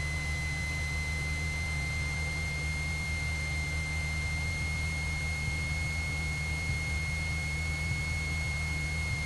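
Cessna 172's engine and propeller droning steadily in the cockpit at approach power, with a steady high-pitched tone held over it.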